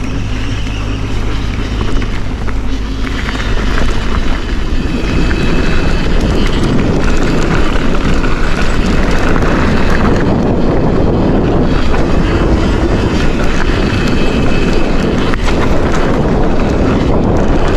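Wind buffeting the camera microphone over the rumble and rattle of a Forbidden Dreadnought mountain bike's tyres on a dirt trail during a fast descent. It grows louder about four to five seconds in as the speed picks up.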